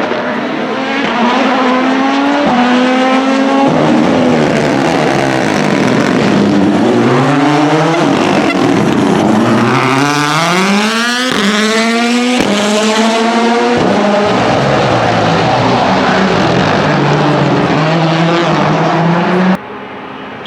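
Rally car engine accelerating hard through the gears, its pitch climbing and dropping back at each upshift, with the fastest rises about halfway through. It cuts off suddenly near the end.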